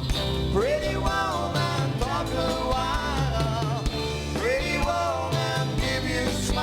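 Live rock and roll band playing, guitar to the fore over a steady bass and drum beat, with sliding, bending notes.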